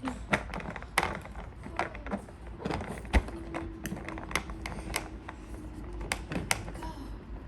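Hard plastic parts of a Play-Doh Wheels cement truck toy clicking and knocking irregularly as they are twisted and pressed by hand.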